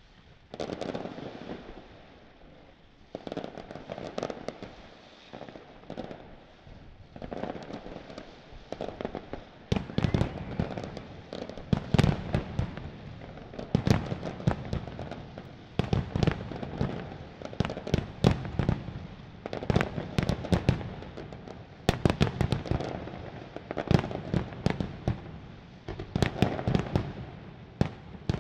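Fireworks display: aerial shells bursting in quick clusters every second or two, with crackling between the bangs. It starts out of near quiet and grows louder from about a third of the way in.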